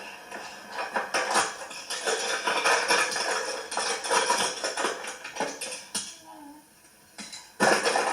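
Toy cars clattering and rattling against each other in a dense jumble of small clicks, which tails off, then one loud clatter near the end.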